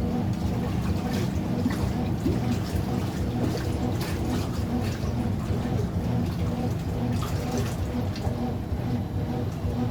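Brastemp BWT09A washing machine running its super-rinse: a steady motor hum with water sloshing and splashing in the drum.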